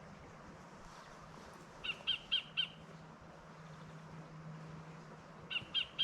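A bird calling in two quick runs of four short, evenly spaced notes, the runs about three and a half seconds apart.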